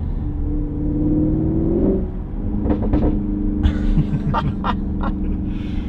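Tuned Audi RS6 Performance's twin-turbo V8, with an aftermarket exhaust, accelerating, heard from the cabin. The engine note climbs for about two seconds, drops at a gear change, then pulls on steadily.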